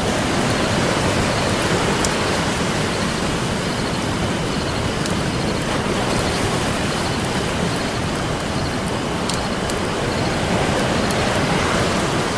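Ocean surf washing steadily, with a wood campfire crackling over it in sparse, faint pops.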